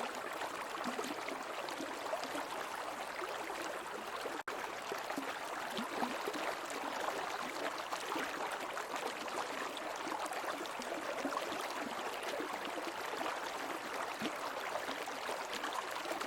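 Creek water running over rocks: a steady rush with small irregular gurgles. It cuts out for an instant about four and a half seconds in.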